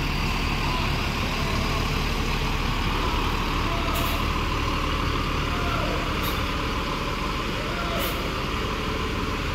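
Large vehicle's diesel engine running steadily with a low, even hum, with a few faint clicks.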